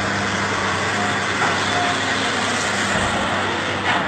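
A motor vehicle, most likely a heavy truck, running steadily: a constant low hum under an even rush of road and traffic noise.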